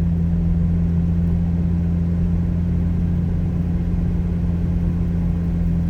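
McLaren Artura driving at a steady speed, heard from inside the cabin: a constant low drone with a steady hum that neither rises nor falls.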